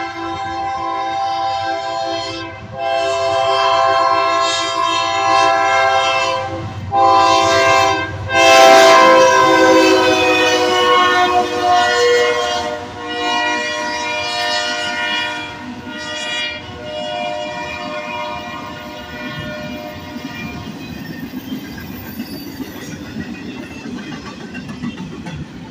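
GE diesel locomotive's air horn sounding a series of long blasts for a grade crossing, the chord dropping in pitch about eight seconds in as the locomotive passes at speed. Then the rumble and clickety-clack of an empty well-car train rolling by.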